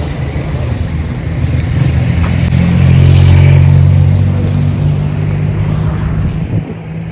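A motor vehicle's engine passing close by, a low steady hum that swells to its loudest about three seconds in and then fades away.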